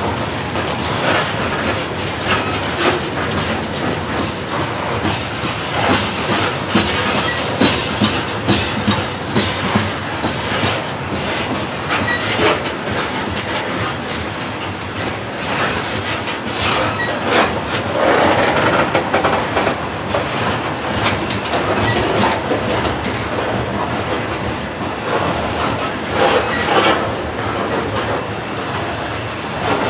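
Loaded coal cars of a long freight train rolling past, steel wheels clacking over the rail joints in an irregular stream over a steady rumble. The sound swells for a moment about two-thirds of the way through.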